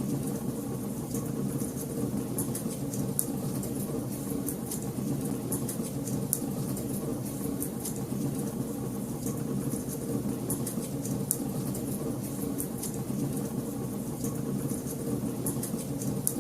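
Wood fire burning in a fireplace: a steady low rumble of flames with frequent sharp, irregular crackles and pops, several a second.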